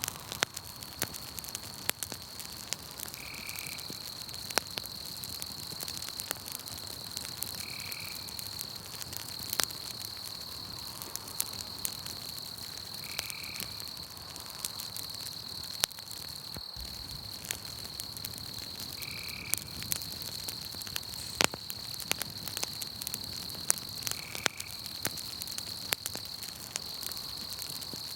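Campfire crackling with frequent sharp pops, over a steady high chirring of insects at night. A short call repeats about every five seconds.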